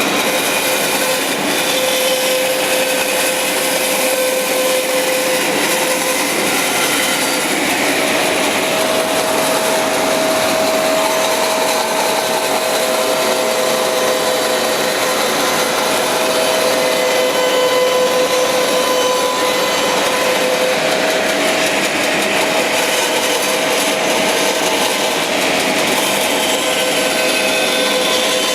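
Bandsaw cutting a thick solid eastern maple top into a circle on a pivot jig: steady machine noise with a whine that shifts in pitch now and then as the blade is fed through the wood.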